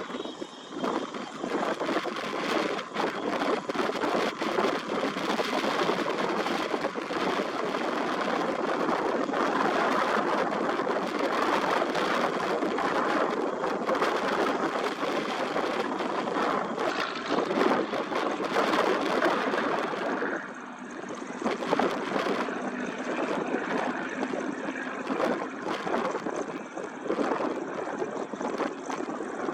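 Airbus H135 twin-turbine helicopter running close by, a steady rushing of turbines and rotor; the high hiss dulls and the sound dips briefly about twenty seconds in.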